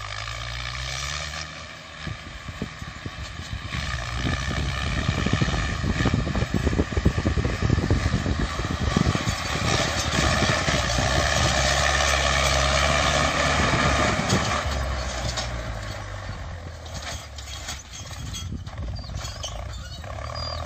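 A heavy vehicle engine running, its pitch rising in the first couple of seconds, then running hard and loudest through the middle before easing off.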